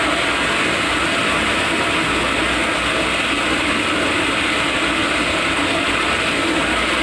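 Water rushing steadily into a toilet tank through its inlet (fill) valve, a loud even hiss.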